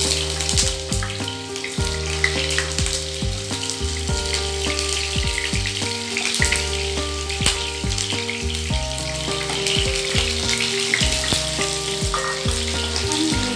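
Raw potato chunks sizzling in hot oil in a non-stick pan as more pieces are dropped in, over steady background music.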